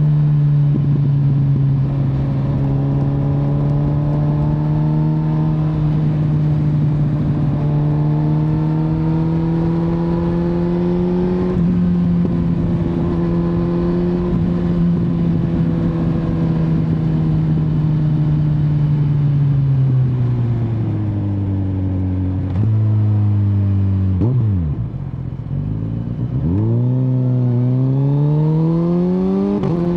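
Kawasaki Z900's inline-four engine running under way: revs climb slowly, then ease off from about two-thirds in. A quick dip and sharp swoop in revs follows, and the engine then pulls up through the revs again near the end.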